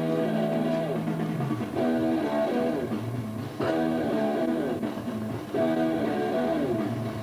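Guitar music: a repeated phrase of picked notes over a bass line, the phrase coming round about every two seconds.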